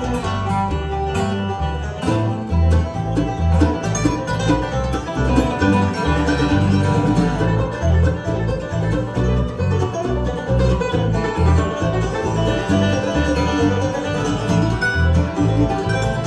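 Live bluegrass band playing an instrumental break, with banjo and guitar picking over a steady upright-bass beat.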